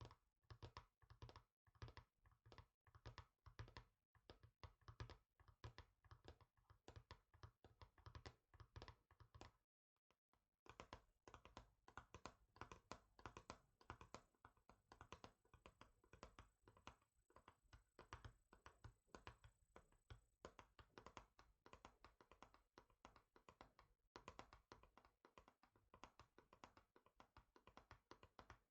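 Fingertips and nails tapping rapidly and continuously on a hard surface, many light taps a second. The tapping stops briefly about ten seconds in.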